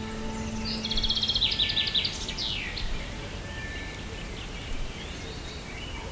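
Forest ambience over a steady noise bed, with a bird's rapid, chattering trill of high notes about a second in that lasts around two seconds, and fainter chirps later. A held musical drone fades out in the first second.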